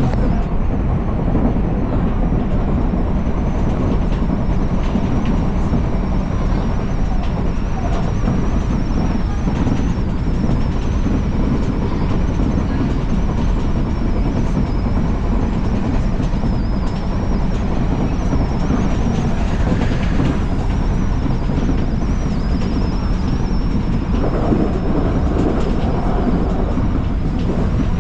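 Odakyu Line commuter train running between stations: a steady rumble of wheels on rail, with a thin, wavering high whine above it.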